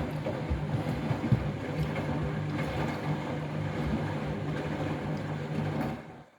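Washing machine running with a bath mat in the drum: a steady motor hum with the drum turning, which stops abruptly near the end.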